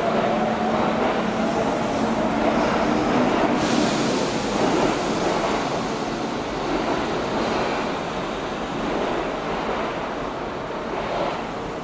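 Electric train running at a station: a steady rushing rumble. A motor whine fades out in the first second, a sudden hiss joins in about three and a half seconds in, and the sound slowly dies down toward the end.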